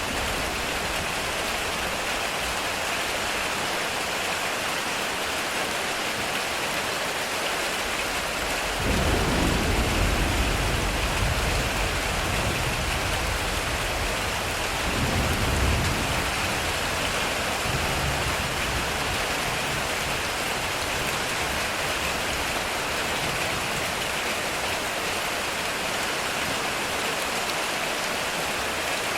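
Heavy rain pouring steadily on a metal roof. About nine seconds in, a low roll of thunder rumbles in, swells again a few seconds later, then dies away.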